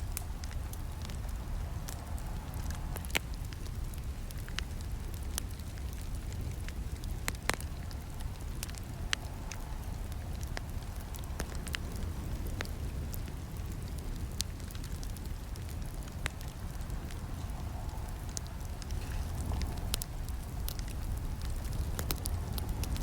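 Campfire burning: a steady low rumble of flames with scattered crackles and sharp snaps from the burning wood, a few louder pops standing out, one about three seconds in and another about seven and a half seconds in.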